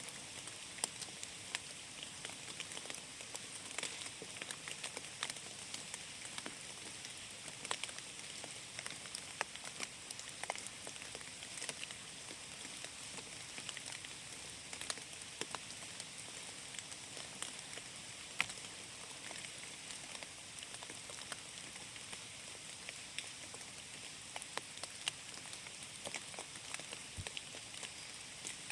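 Steady rain falling on forest foliage, a soft hiss with many sharp drops ticking on leaves.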